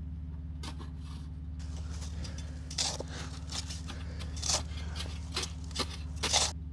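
Truck engine idling steadily, with a series of short scraping, crunching sounds in snow over it; the loudest come about three seconds in, around four and a half seconds, and near the end.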